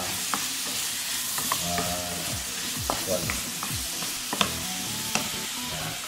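Beef cubes sizzling in hot oil in a non-stick pan, stirred with a wooden spatula that knocks against the pan about six times.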